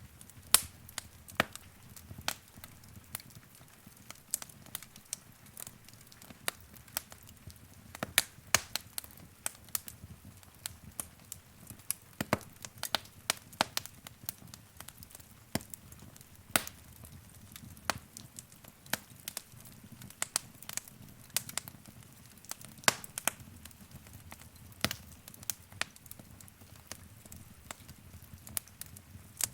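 Wood fire crackling: sharp, irregular pops and snaps from burning logs over a low, soft hiss of flames.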